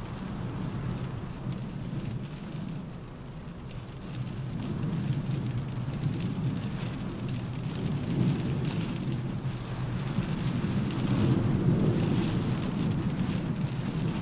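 Rain drumming on a car roof, with a deep low rumble that builds from a few seconds in and stays strong to the end.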